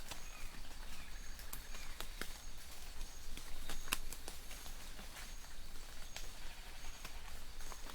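Light rain in a forest, with scattered sharp drips among a soft even patter and distant birds giving short high chirps over and over.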